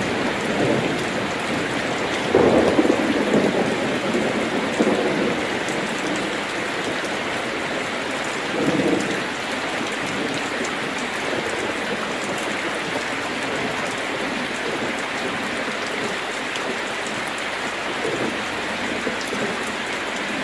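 Heavy rain falling steadily on a metal roof, with low rumbles of thunder about two seconds in and again around nine seconds, easing toward the end.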